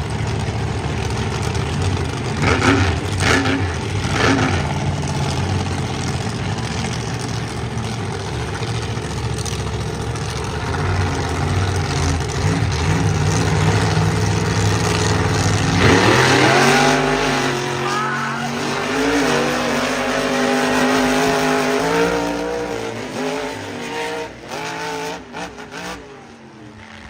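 Monster truck engines running loud and steady, then about sixteen seconds in revving hard with several engine notes rising and shifting in pitch, fading near the end.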